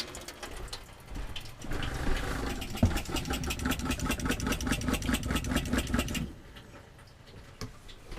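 RV fresh-water pump running as it pressurises the freshly primed water system, a fast, even pulsing over a low hum. It starts about a second and a half in and stops about six seconds in.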